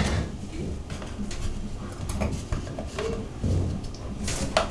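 Scattered light metallic clicks and taps as small parts are fitted back onto a Moen shower valve cartridge by hand.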